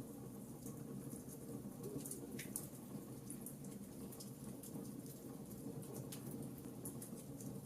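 Fireplace fire crackling: scattered small pops and ticks over a low, steady rumble of the flames.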